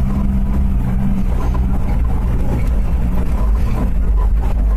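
Suzuki Samurai's engine running steadily at low speed, heard as a low drone from inside the cabin while crawling over a rough, rocky track.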